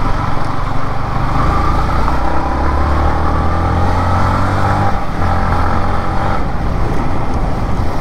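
Yamaha MT-15's 155 cc single-cylinder engine running at steady riding revs under way, its note breaking briefly about five seconds in and shifting again near the end.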